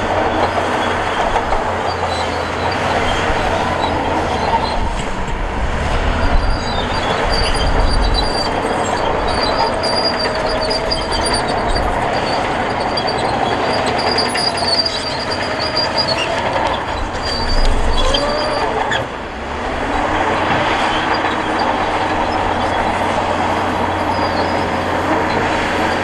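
Crawler bulldozer working: a diesel engine running under load, with its steel tracks squealing and clanking. The noise dips briefly about two-thirds of the way through.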